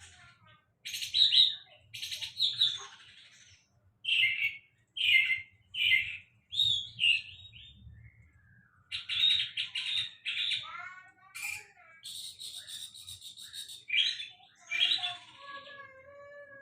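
Songbird singing a varied run of short harsh chattering phrases and sharp chirps, with a few quick falling whistles about two thirds through and lower whistled notes near the end.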